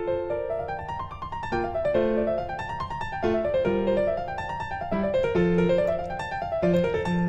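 Background piano music: quick running notes in rising and falling arpeggio-like figures.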